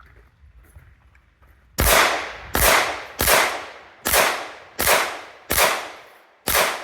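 Seven pistol shots fired at an even pace, about one every three-quarters of a second, each trailing off in an echo; a shooter working through a timed competition stage.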